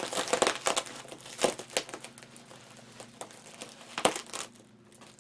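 Bubble wrap crinkling and rustling as it is handled and pulled from around a CRT monitor, with irregular sharper crackles about one and a half seconds in and again near the four-second mark.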